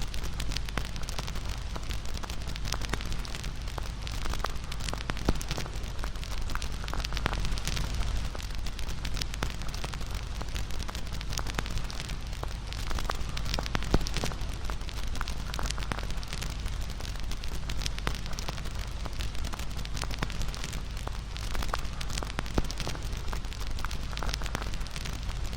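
Wood bonfire crackling and popping, with frequent small snaps and an occasional sharper pop, over a steady low rumble.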